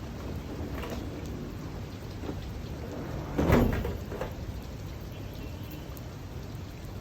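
Steady rain, with one sudden loud crack about three and a half seconds in that dies away within about a second.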